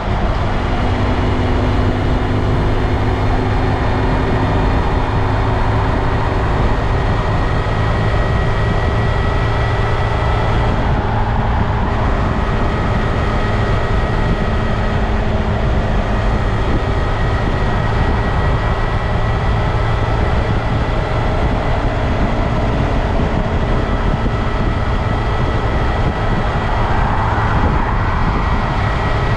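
2022 Honda Grom's 124 cc single-cylinder engine running steadily as the bike rides along, with a constant dense mechanical and road noise.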